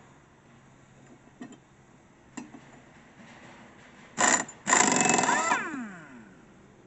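Impact wrench undoing a mower blade bolt: a short burst, then after a brief pause a longer run of about a second that stops and spins down in falling pitch. A few light clicks of handling come before it.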